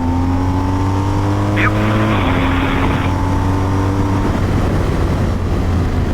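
Motorcycle engine accelerating, its pitch rising, with a gear change about two seconds in, then rising again through the next gear until it eases off about four seconds in. Heavy wind rush buffets the helmet microphone underneath.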